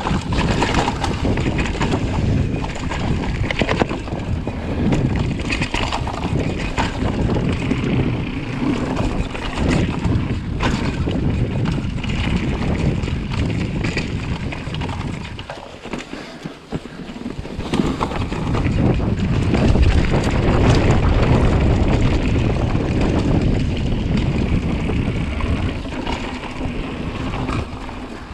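Wind buffeting the microphone of a mountain bike descending a dirt downhill trail, with tyre rumble and scattered sharp knocks and rattles. It drops away briefly about halfway through as the bike slows, then builds up again.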